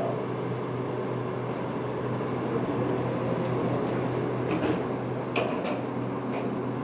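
Steady low hum and running noise inside an airport people-mover train car, with a few faint clicks and squeaks over the second half.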